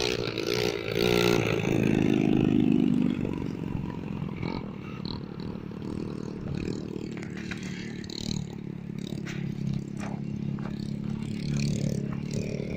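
Motorcycle engine running, louder for a couple of seconds near the start and then steady, with scattered clicks and clatter.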